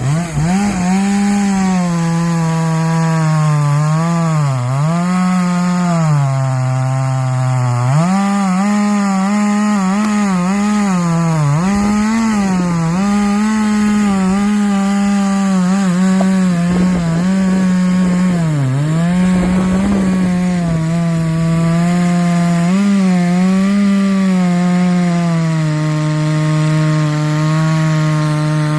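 Chainsaw running at high revs and cutting through wood, its engine pitch dipping again and again as the chain bogs under load, then recovering.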